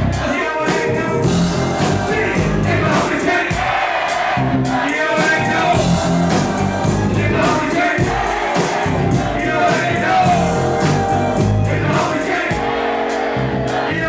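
Live music played loud over a PA, with a steady beat, heavy bass and singing, and the crowd audible beneath it.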